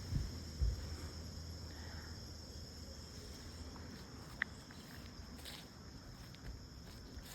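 A steady, high-pitched insect chorus of crickets, with soft footsteps on the trail and two low thumps in the first second and a sharp click a little past halfway.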